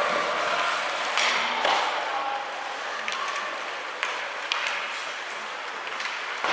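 Ice hockey game sounds: steady crowd noise and chatter, cut by several sharp clacks of sticks and puck.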